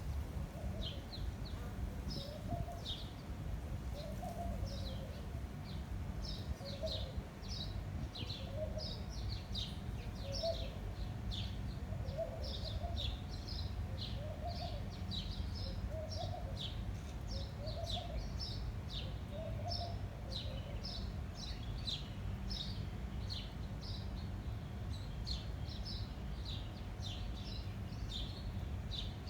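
Small birds chirping rapidly and continuously, with a lower call repeating about every second and a half through the first two-thirds, over a steady low rumble of wind.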